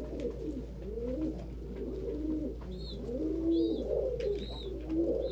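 Several domestic pigeons cooing, their low arching coos overlapping one after another, with a few faint high peeps in the middle.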